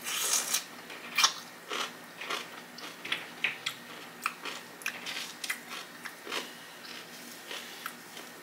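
A bite into a crunchy dill pickle, then chewing it with short crisp crunches every half second to second that thin out toward the end.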